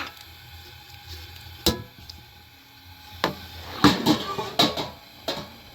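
Pots and dishes being handled: a sharp knock a couple of seconds in, then a cluster of clattering knocks about four seconds in and one more near the end.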